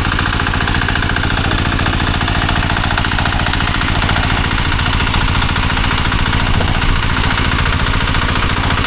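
Small stationary engine running steadily with a fast, even pulse, driving the rice winnowing blower fan.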